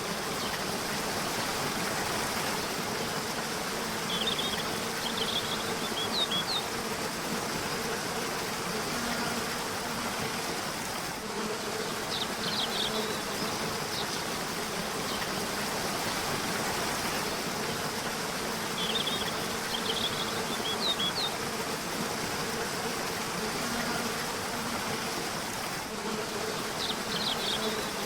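A river running steadily, with short bursts of bird chirps that return about every seven or eight seconds.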